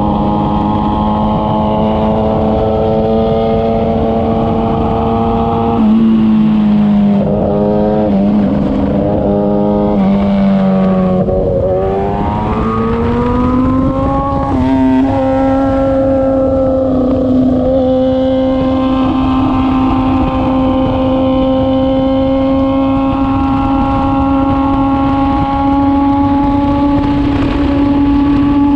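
Kawasaki ZX-10R inline-four engine running at high revs through a Racefit full-system titanium exhaust, a loud steady high-pitched drone. From about six seconds in the pitch dips and rises in a quick series of throttle blips, falls lower just before the twelfth second, then climbs again and keeps rising slowly.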